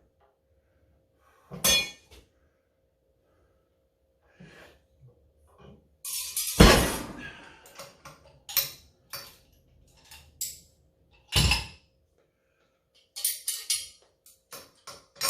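Loaded iron weight plates on a rolling thick-bar grip handle clanking as the 180-pound load is lifted and set down. The loudest moment is a metal crash with a ringing tail a little past six seconds in, then a heavy thud a few seconds later and lighter clinks near the end.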